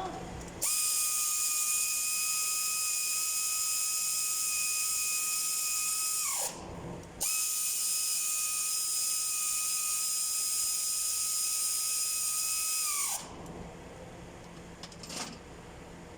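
High-speed power tool, drill-like, running twice at a steady speed with a high whine, each run about six seconds long; the pitch falls as it winds down between the runs and again near the end.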